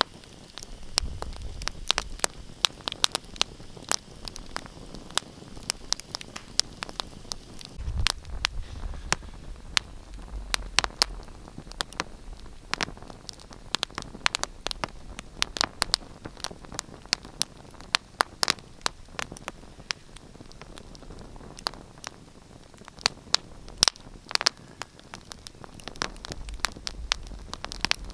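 Wood fire crackling: many sharp, irregular pops and snaps over a steady hiss, with a low rumble swelling now and then.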